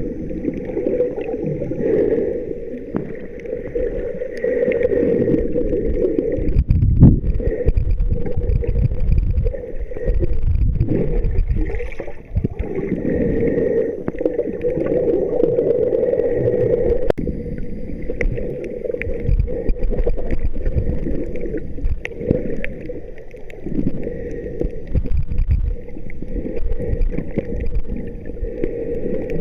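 Muffled water sloshing and gurgling close to the microphone, uneven and continuous, with a low rumble.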